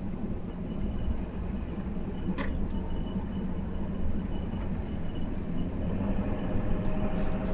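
Steady road and engine noise of a truck driving, heard from inside the cab. Music begins to come in near the end.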